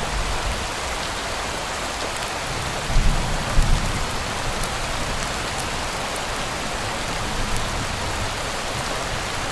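Steady rain falling, an even hiss with scattered faint ticks of drops. About three seconds in comes a brief low rumble.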